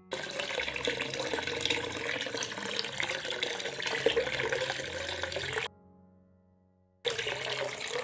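Water running steadily from a miniature DIY water pump model. It cuts off abruptly about five and a half seconds in and starts again about a second and a half later.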